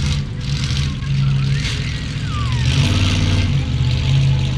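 A monster truck's big engine running loud, its pitch shifting up and down as it is revved.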